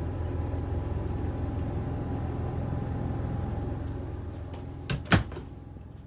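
A steady low hum with faint steady tones, broken about five seconds in by two quick knocks, like a cabinet or wardrobe door shutting, after which the hum fades down.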